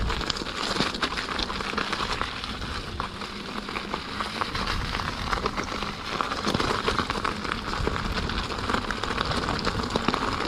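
Steady crackling rush of an electric unicycle riding over a rough, rocky off-road track in the rain, with many small clicks and knocks from the tyre on stones.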